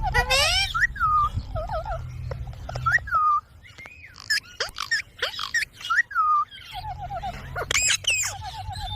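Indian ringneck parakeet calling: many short chirps and squawks that glide up and down in pitch, with a run of quick repeated notes near the start and near the end, over a low rumble in parts.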